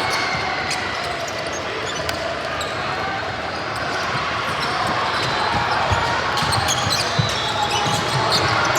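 Youth basketball game in a gym: the ball bouncing on the court with low thumps, short high squeaks, and a steady murmur of crowd voices in an echoing hall.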